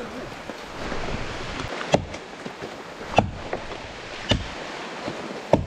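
Four sharp knocks, a little over a second apart, over a steady rushing background noise.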